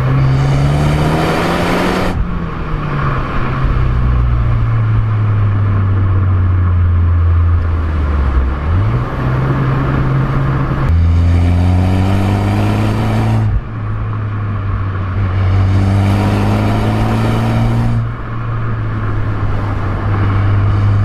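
Ford Focus ST's turbocharged 2.0-litre four-cylinder engine pulling hard, revs climbing and then dropping suddenly at a gear change three times, with steadier cruising in between.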